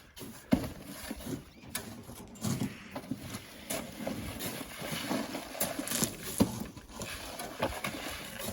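Shovels working sand into a truck: irregular knocks and scrapes, a few sharp strikes standing out.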